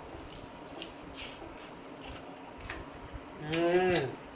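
Soft wet chewing and lip smacks from a mouthful of sauced chicken drumstick. Near the end comes a short hummed "mmm" whose pitch falls.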